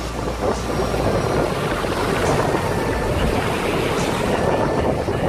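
Strong wind blowing across the microphone in a steady low rumble, over the noise of heavy sea surf.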